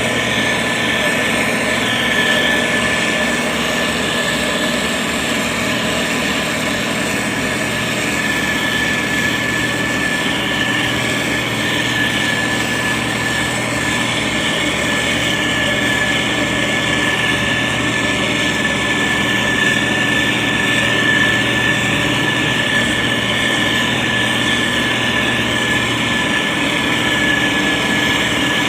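Diesel engine of heavy road-building machinery running steadily, with a steady high whine over it.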